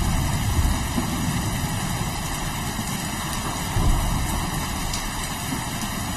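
Steady rain with low rolling thunder rumbling underneath, swelling about half a second in and again near four seconds.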